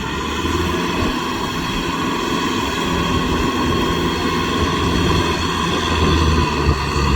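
Kubota M6040SU tractor's diesel engine running steadily under load while driving a rotavator, a continuous low drone with a higher steady whine over it.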